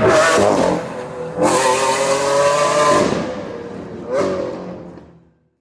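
Car engine revving in three surges, its pitch climbing on each, the sound fading out near the end.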